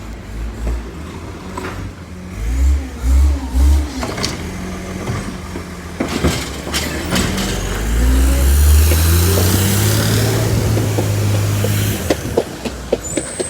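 Bridgeport Ranger garbage truck's engine revving: three quick revs a few seconds in, then the revs climb and hold high for about four seconds before dropping. Sharp clicks and knocks follow near the end.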